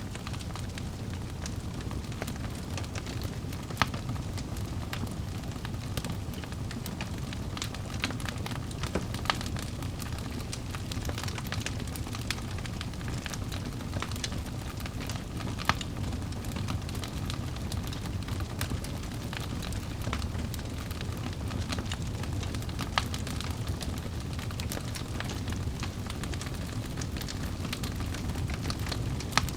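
Wood fire burning in a fireplace: a steady low rumble of flames with frequent sharp crackles and pops from the burning logs, a few louder pops standing out.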